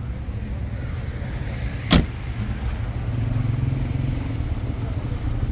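Steady low rumble of a car, with one sharp knock about two seconds in.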